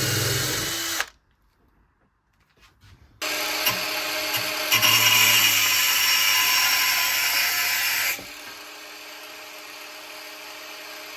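Electric power tool running in bursts: a short run stopping about a second in, then switched on again about three seconds in, working hardest for a few seconds before easing to a lighter, quieter steady run.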